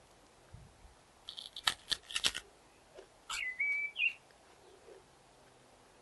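Songbird singing: a quick burst of sharp, high notes about a second in, then a clear, steady whistled note that rises at its end about a second later.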